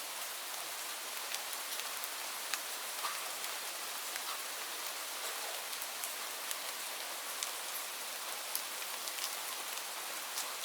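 Steady rain falling, a dense even hiss with many separate drops ticking sharply on a surface.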